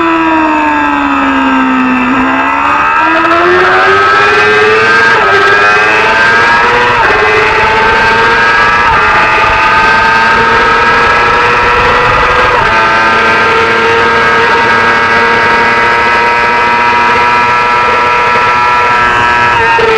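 Racing motorcycle engine at full race pace: the revs fall for about two seconds as the bike slows, then climb through the gears. The pitch drops sharply at each upshift, about 5, 7, 9 and 13 seconds in, and the engine holds high revs after that.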